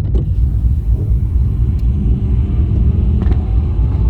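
Holden VX Commodore SS's stock 5.7-litre LS1 V8, fitted with an aftermarket exhaust, idling with a steady low rumble heard from inside the cabin.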